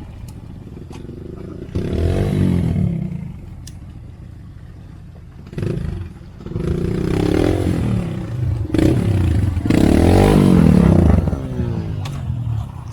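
Trail motorcycle engine ridden along a dirt track, revving up and easing off in repeated surges: one about two seconds in, another around seven seconds, and the loudest around ten to eleven seconds, running at low revs in between.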